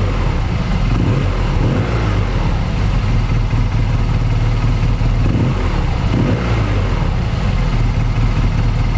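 2010 BMW R1200GS's dual-overhead-cam boxer twin engine running steadily at idle, sounding healthy.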